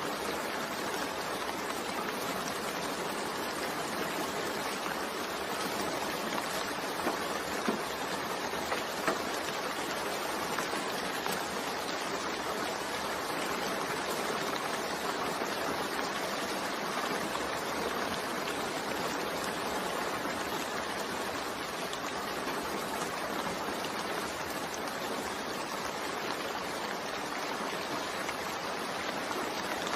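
Steady rain falling, an even hiss of water, with a few brief louder drops or drips about seven to nine seconds in.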